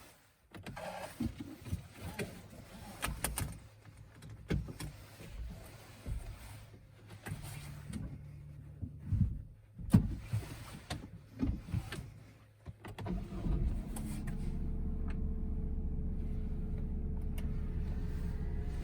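Clicks and knocks inside a Honda N-BOX cabin, then about thirteen seconds in its S07A 658 cc three-cylinder engine is started and settles into a steady idle.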